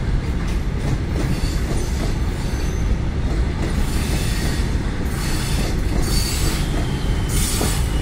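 Loaded covered goods wagons of a freight train rolling past: a steady rumble and clatter of steel wheels on rail, with several brief bursts of high hiss and thin wheel squeals in the second half.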